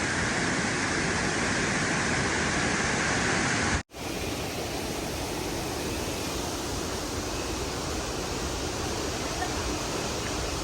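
Steady rush of flowing water, a continuous noise without any rhythm. About four seconds in it cuts off abruptly and resumes as a duller, more even rush.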